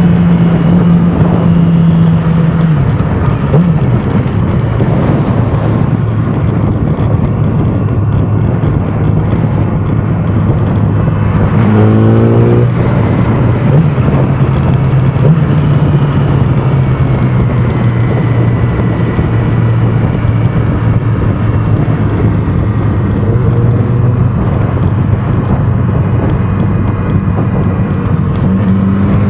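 Yamaha R6 inline-four sport-bike engine running at steady cruising revs under heavy wind rush. The pitch drops a few seconds in, rises briefly about twelve seconds in, and climbs again near the end.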